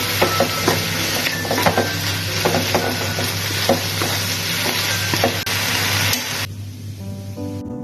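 Food sizzling in a hot pan while being stirred, with scattered sharp clicks of the utensil against the pan. The sizzling cuts off suddenly about six and a half seconds in, leaving soft guitar music.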